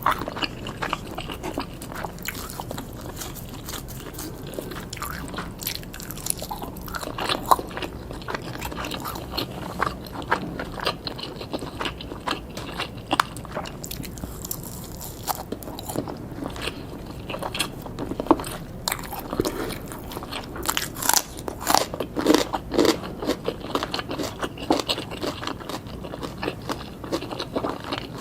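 Close-miked eating of grilled skewered pork and sausages: biting and chewing with many short, sharp crunching and wet mouth clicks, busier in the second half.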